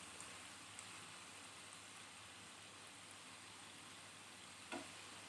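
Banana fritters frying in hot oil, a faint steady sizzle, with one light knock near the end.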